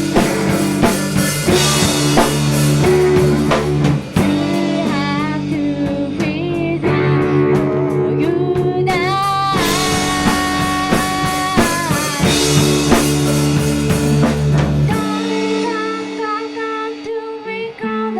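Live indie-pop band playing a song: electric guitar, bass and drum kit with a sung vocal line. The deep bass drops out about three seconds before the end, leaving guitar and voice.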